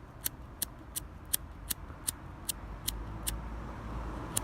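Handheld fire sparker struck over and over, a sharp click about every third of a second, throwing sparks to catch char cloth; the strikes pause briefly near the end.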